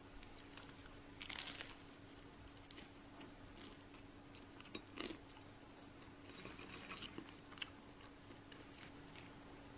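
A bite into a slice of bread topped with chocolate sprinkles, with a crunch about a second in, then soft chewing with a few small clicks.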